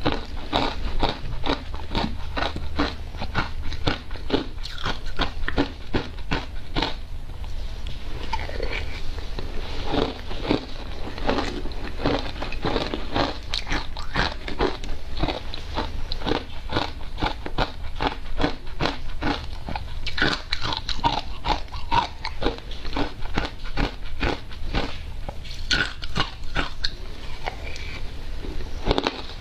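Close-up crunching and chewing of ice dusted with matcha powder: a steady run of crisp crunches, several a second.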